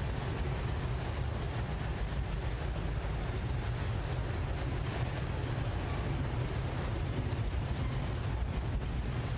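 Diesel freight train running: a steady low rumble with no changes.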